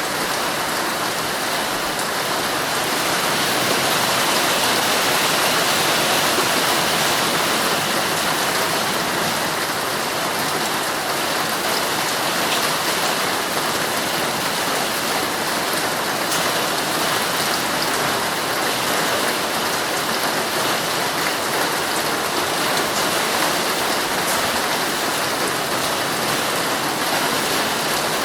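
Heavy rain falling on a tent, a steady dense hiss of many drops hitting the fabric.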